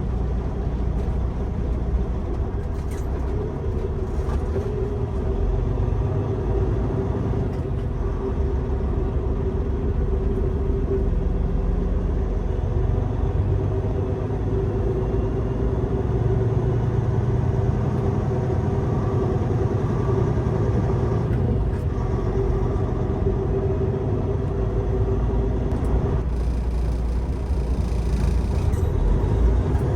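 Semi-truck running with a steady low rumble and a constant droning hum, unchanging throughout.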